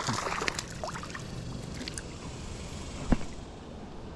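River water splashing and trickling around a wading angler as a hooked bass is brought in, with light clicks and one sharp thump about three seconds in.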